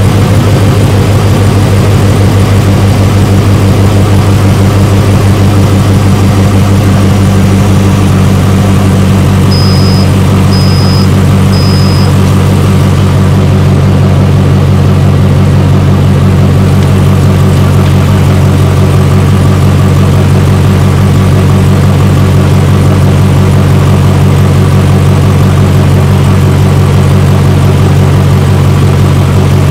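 Steady running of a Hummer H2's 6.0-litre V8 idling with the air conditioning on max, together with an A/C recovery and charging machine running alongside. Three short high beeps come about a second apart, around ten seconds in.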